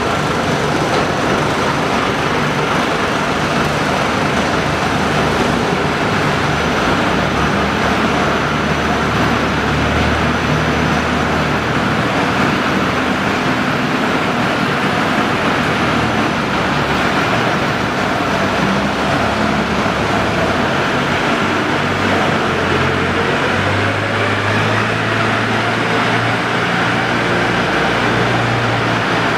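Steady, loud rumble and hum of running industrial machinery, with low drones that shift in pitch in the second half.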